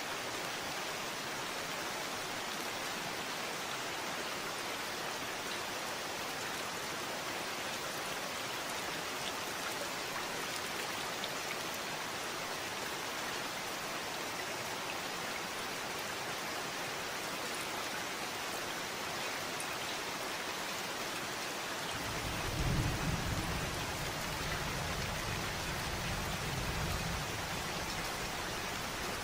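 Steady rain falling. Near the end a low rumble of thunder rolls in, loudest at its start, then dies away.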